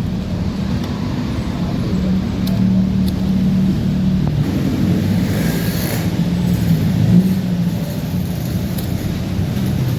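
Honda Vario 125 scooter's single-cylinder engine running steadily at idle after the electric-start fault was cured, with a brief hiss about halfway through.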